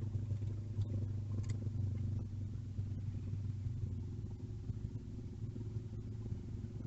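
An engine running steadily at a low, even pitch, slowly getting quieter.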